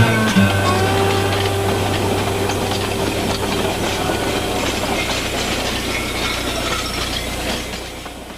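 Train running with a steady rumble and rail clatter, fading out near the end.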